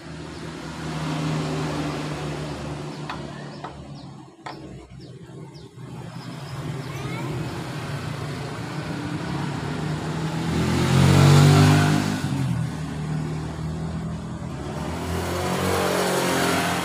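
Passing motor vehicles: an engine hum that swells and fades, loudest about eleven seconds in and rising again near the end, with a few light clicks about three to five seconds in.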